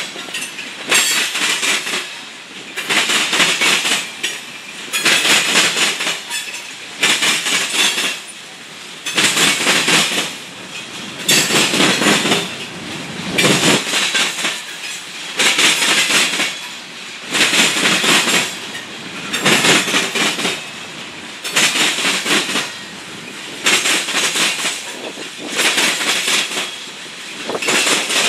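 Loaded freight hopper cars rolling past, their wheels clattering over the track in a loud burst about every one and a half to two seconds, with steady rolling rumble in between.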